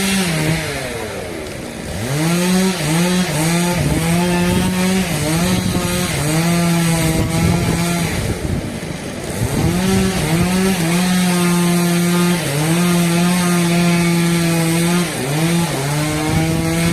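Two-stroke chainsaw running at high revs while cutting through a hardwood log, its engine note holding steady and then dropping and climbing back a few times as the throttle eases and opens again.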